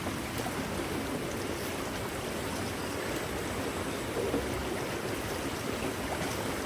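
Running water: a steady rushing noise that holds level throughout.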